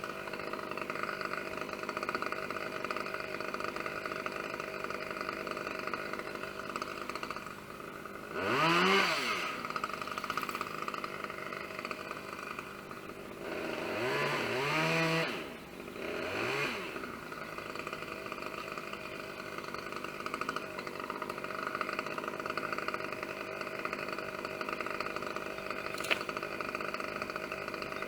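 Chainsaw idling steadily, revved up briefly about eight seconds in, then again for about two seconds around fourteen seconds in, with one more short rev just after. A single sharp click near the end.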